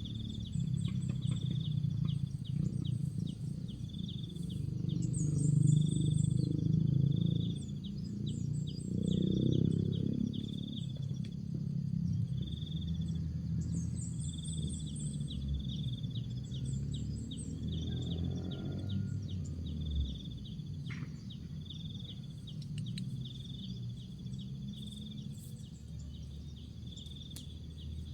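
Spotted doves (tekukur) cooing in low, repeated phrases. A high chirp repeats about once a second above them, with a short, higher trill now and then.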